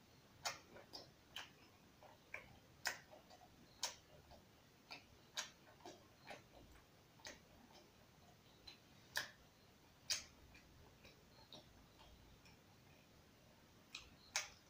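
A person chewing food with wet mouth smacks: irregular short clicks, roughly one or two a second, over near silence.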